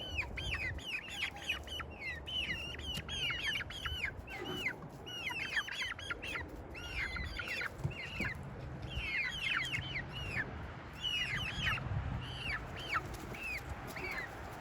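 A flock of young poultry peeping, with many short, high chirps that fall in pitch, overlapping at several a second, over a low rumble.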